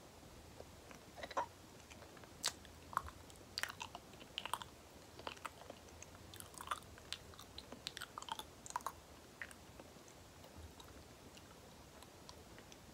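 Close-miked chewing of soft banana: wet, sticky mouth sounds with many short smacks and clicks, coming in clusters and thinning out near the end.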